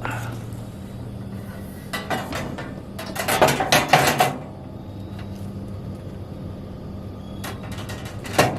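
Metal grill parts clanking and rattling as they are handled and fitted together, in a few short spells, the longest and loudest between about three and four seconds in, over a steady low hum.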